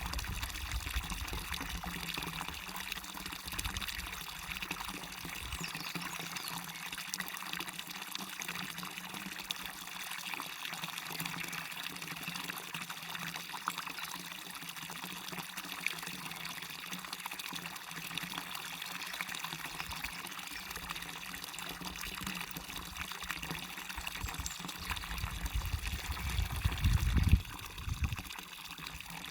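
Small waterfall running steadily, a constant splashing hiss of falling water. A brief low rumble comes near the end.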